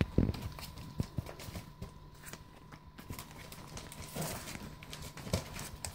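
Puppies' claws and paws clicking and tapping irregularly as they move about, over a faint steady hum.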